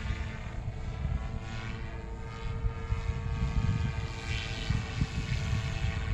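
GooSky RS4 Venom electric RC helicopter in flight: its rotor and motor give a steady whine of many layered tones, wavering slightly in pitch. Heavy wind buffeting rumbles on the microphone underneath.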